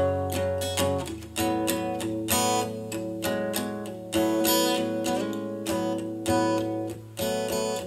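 Acoustic guitar strumming chords in a slow, steady rhythm, a fresh strum about once a second, with the chords ringing between strums.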